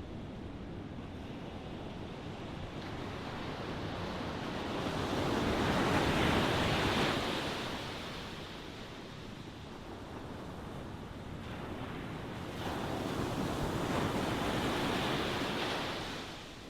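Ocean waves washing onto a shore: a steady surf hiss with two waves swelling and breaking, one about six seconds in and another from about thirteen seconds, then subsiding.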